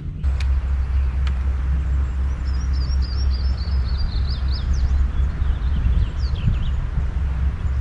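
Strong wind rumbling on the microphone, with small birds chirping in quick high runs from about two to six and a half seconds in.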